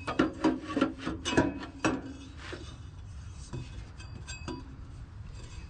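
A quick run of sharp clinks and knocks from hard objects being handled, then a few fainter clinks about four seconds in.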